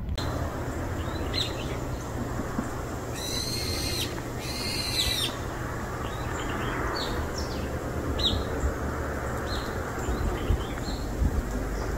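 Wild birds calling: two harsh, drawn-out calls about three and four seconds in, then many short high chirps. A steady low rumble runs underneath.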